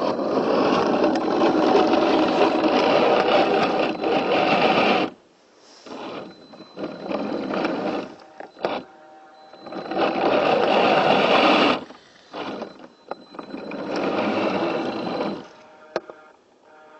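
Electric motor and gears of an RC scale Land Rover Defender whining in throttle bursts. The longest burst lasts about five seconds at the start, followed by several shorter ones.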